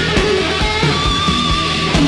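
Heavy rock music: electric guitar playing held lead notes over a steady drum beat.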